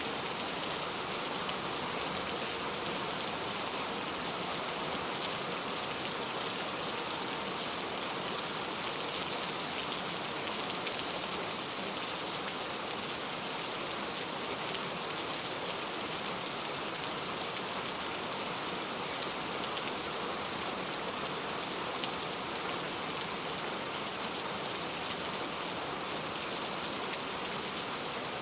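Steady, heavy rain: an even hiss of falling rain with fine patter of individual drops, unchanging throughout.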